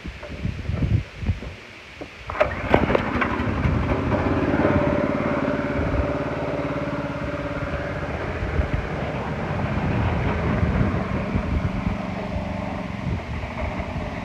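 Predator 212cc single-cylinder four-stroke engine on a Wheel Horse mower being restarted after a stall: a few uneven thumps, then it catches about two and a half seconds in and runs steadily.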